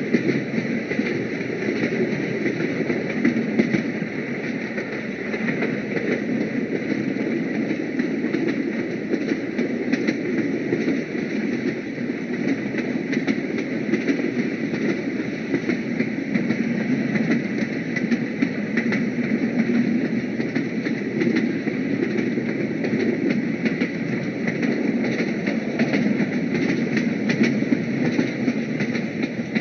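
Train running, giving a steady, unbroken noise with no distinct clanks or horn.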